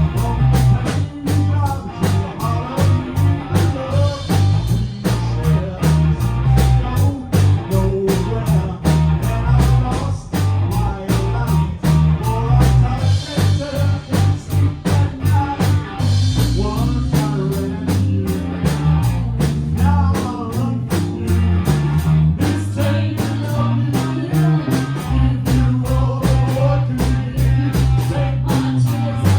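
Live rock band playing, with guitar over a steady beat and a moving bass line.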